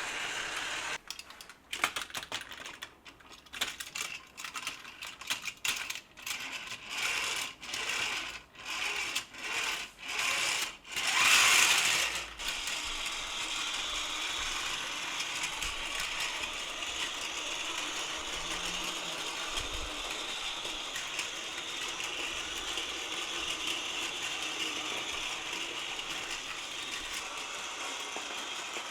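Battery-powered Plarail toy trains running on plastic track, their small geared motors whirring and clattering. The sound comes in uneven bursts for the first twelve seconds or so, peaking just before it settles, then runs steadily.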